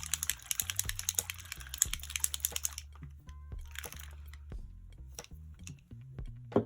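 Small bottle of Schmincke Aqua Drop liquid watercolour shaken hard for about three seconds, a fast run of rattling clicks, followed by a few scattered clicks and handling noises.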